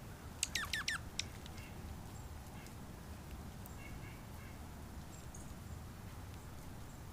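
A small bird calling: a quick run of five sharp notes that each sweep downward in pitch, a single note after it, then a few faint short chips.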